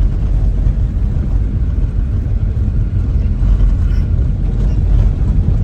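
Car driving slowly over an unpaved dirt road: a steady low rumble of tyres and engine.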